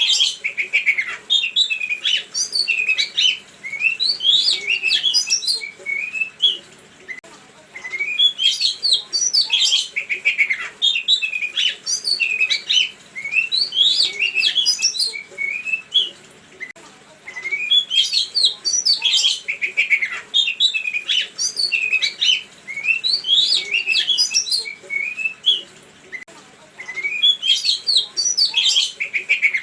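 A songbird singing fast, varied chirps and trills in long phrases, with a short pause about every nine seconds where the song track repeats. It is a lure recording of the kind played to make caged songbirds answer.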